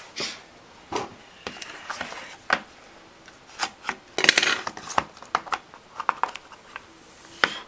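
Cardboard trading-card box and packaging being handled, with scattered taps and clicks and a longer rustling scrape about four seconds in.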